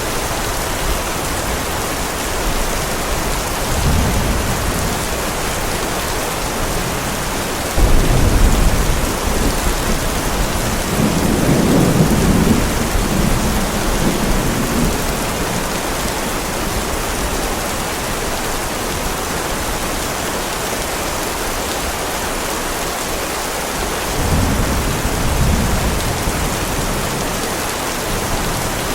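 Heavy rain falling steadily, with several low rolls of thunder: a sudden clap about eight seconds in, a longer rumble a few seconds later, and another roll near the end.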